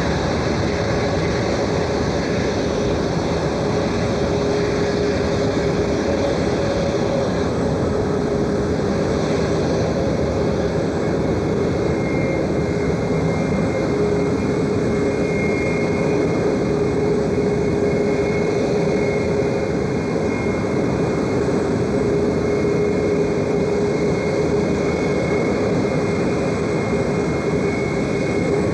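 Jet aircraft engines running close by: a loud, steady noise with a couple of low steady tones and a higher whine that comes in about twelve seconds in. It cuts off suddenly at the end.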